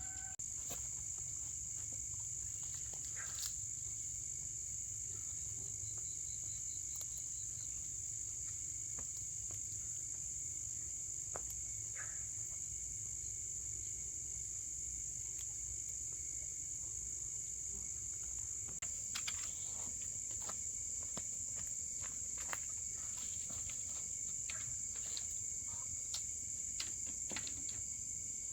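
Steady, high-pitched insect drone with no break, over a low rumble. Scattered light clicks and taps come more often in the last third.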